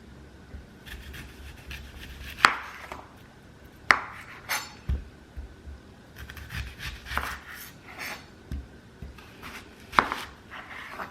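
Kitchen prep sounds: irregular knocks and clatter of utensils and dishware, with three louder sharp knocks spread through and softer handling noises between them.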